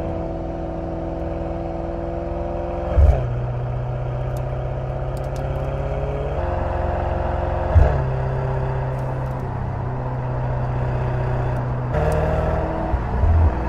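Mercedes-AMG GT 63 S 4-Door's twin-turbo V8 running under way. The engine note holds steady and then steps to a new pitch several times, with a short sharp crack at two of the changes, about three seconds in and near eight seconds.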